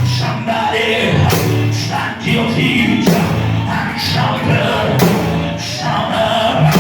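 Gospel music with singing over a band with bass and drums.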